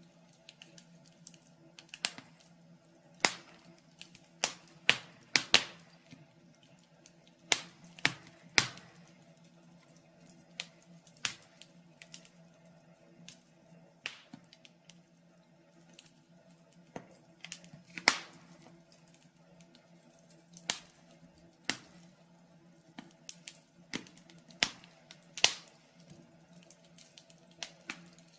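Wood fire in a fireplace crackling, with sharp irregular pops every second or two, some much louder than others.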